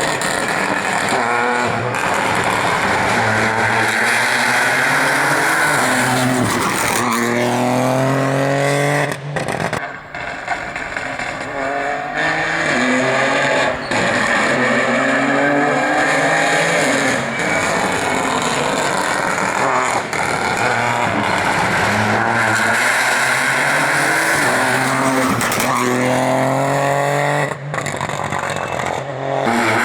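Rally cars driven hard on a stage: engines revving up through the gears, the pitch climbing and then dropping at each shift, several times over. There are brief dips in loudness about ten seconds in and near the end.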